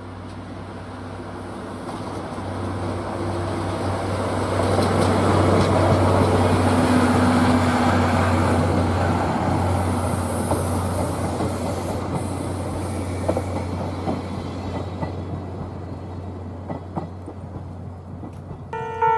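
A DE10 diesel-hydraulic locomotive hauling passenger coaches passes by: the steady engine drone and the rumble of the train build to a peak about six seconds in, then fade. Wheel clicks over rail joints are heard as the coaches go by.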